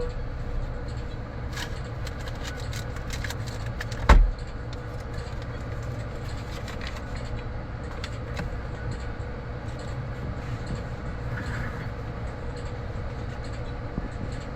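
Vehicle engine idling with a steady low rumble, heard from inside the cab through an open window, with a few light clicks and rattles in the first few seconds and one sharp thump about four seconds in.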